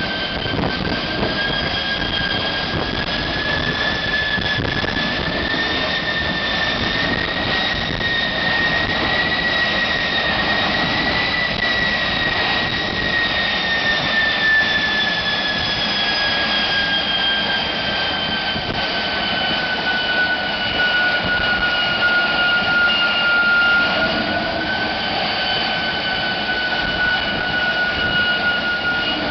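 GE J33 centrifugal-flow turbojet running in a test cell: a steady loud rush with a high whine that climbs slowly for about twelve seconds, then eases back down over the next twelve.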